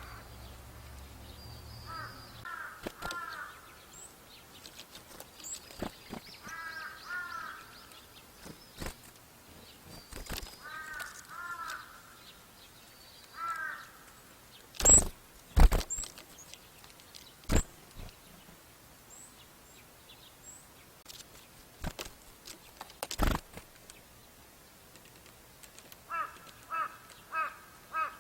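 Wild birds calling: a bird gives short runs of three or four pitched call notes, repeated several times, with faint high chirps from smaller birds. Several sharp taps and knocks cut in, the loudest about halfway through.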